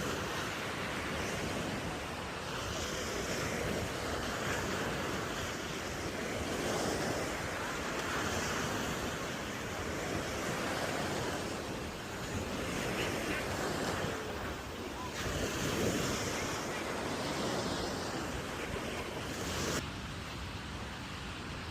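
Ocean surf washing onto the beach in repeated swells, with wind on the microphone.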